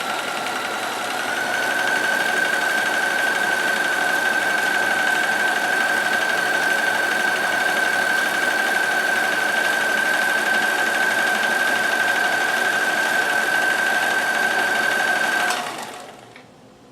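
Kenmore 158.1914 sewing machine running steadily at speed, stitching a multi-point zigzag along a denim hem with a shortened stitch length. Its motor whine rises a little in pitch about a second in, holds steady, then stops near the end.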